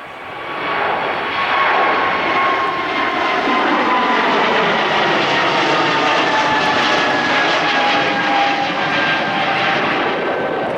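Jet airliner passing close by, loud, swelling about a second in; its engine whine slides slowly downward in pitch as it goes past.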